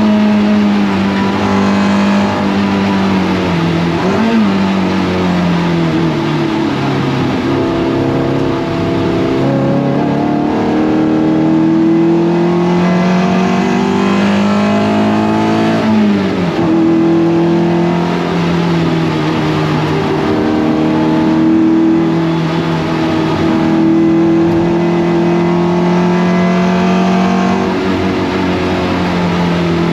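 Toyota MR2 race car engine under racing load, its pitch climbing slowly as it accelerates through the gears and dropping sharply twice, about 4 and 16 seconds in, as it comes off the throttle.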